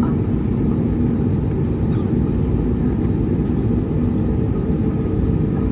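Steady low rumble of an Airbus A321neo's engines running, heard from inside the passenger cabin.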